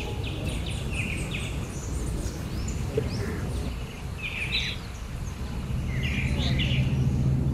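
Small birds chirping and twittering in short, scattered calls over a low, steady background rumble. A low hum grows louder in the last second or two.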